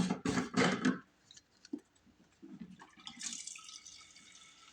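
Gasoline poured from a can into a snowblower's fuel tank: a faint trickle and splash of liquid.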